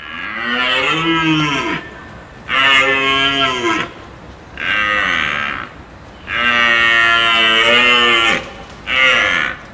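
An animal calling five times in a row, loud, drawn-out pitched calls that each rise and then fall in pitch, the longest lasting about two seconds.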